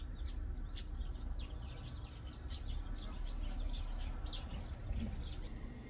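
Small birds chirping, a rapid run of many short high calls, over a low steady rumble.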